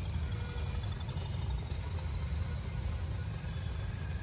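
Low, steady rumble of a passenger train's coaches running away along the track.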